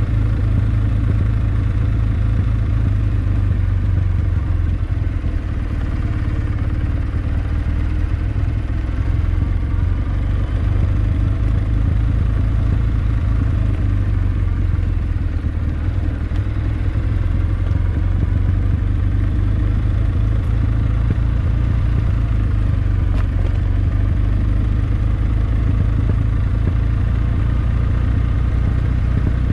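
Kawasaki W650 air-cooled parallel-twin engine running steadily as the motorcycle is ridden, a constant low rumble that eases slightly twice.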